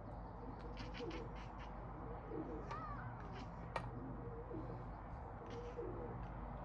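Birds calling: a string of short, low cooing calls repeating about every second, with faint high chirps over them and one sharp click near the middle.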